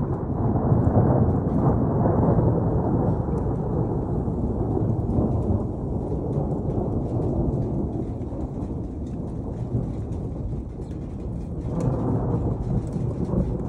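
Thunder rumbling over steady rain, swelling loudest in the first couple of seconds, easing off, then rolling again near the end.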